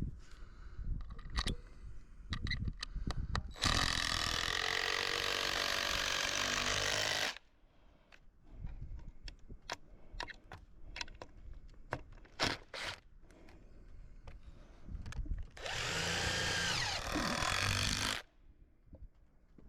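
A power drill runs in two bursts of about three seconds each, driving fasteners, with its pitch dipping under load in the second burst. Scattered knocks and clatter come between the bursts.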